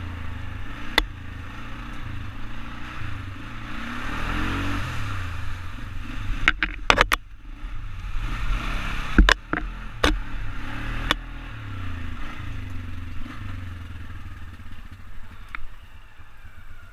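ATV engine running, its pitch rising and falling with the throttle, with several sharp knocks and clatter, a cluster about halfway through.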